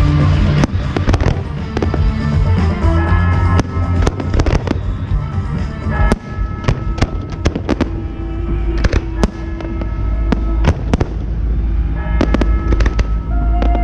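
Fireworks bursting in quick, irregular succession, many bangs, densest in the first half, over a music soundtrack.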